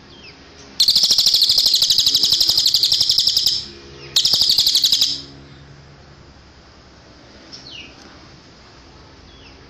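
A cililin bird singing two loud, fast, high trills. The first lasts about three seconds and the second, after a short break, about one second. Faint short falling chirps come before and after.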